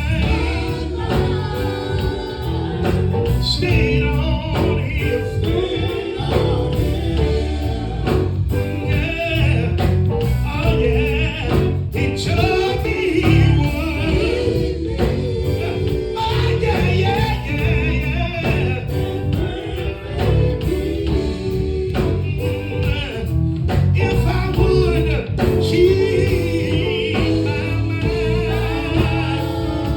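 Gospel group singing with instrumental backing and a steady beat.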